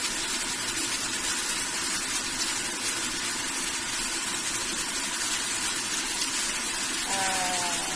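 Marinated chicken pieces frying with garlic and onion in a hot pan, a steady sizzle.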